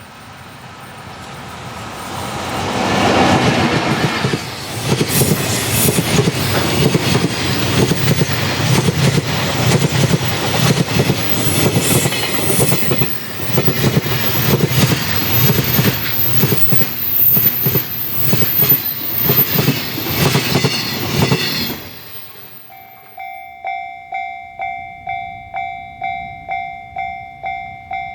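Freight train running past on the main line: its approach swells, then the wheels click rhythmically over the rail joints for most of the time, with a thin high-pitched squeal from wheels or rail near the end of the pass. After the train has gone, an electronic bell rings over and over, about two rings a second.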